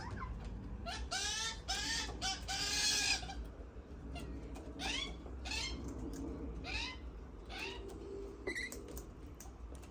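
Birds calling over and over in short rising-and-falling calls, with a dense burst of calls a second or so in, then single calls spaced out.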